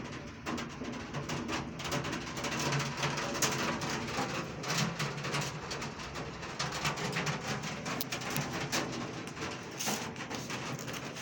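Heavy rain falling steadily: a dense hiss thick with sharp ticks of drops striking a nearby surface.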